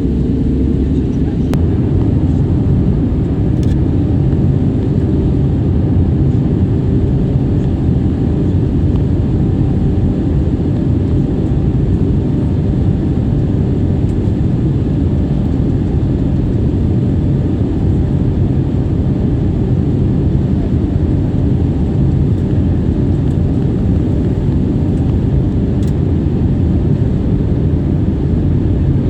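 Steady low drone of a Wizz Air jet airliner, holding an even level with no distinct events.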